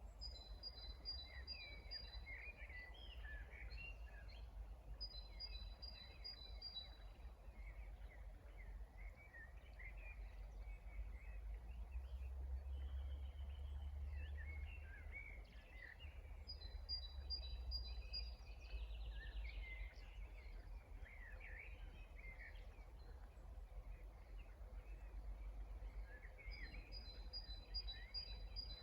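Faint spring birdsong: several small birds chirping and singing, with a short, high, rapid trill of even notes heard four times, over a steady low rumble.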